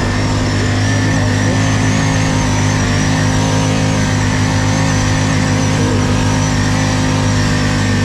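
ATV engine running steadily at an even speed, with a thin high whine over it.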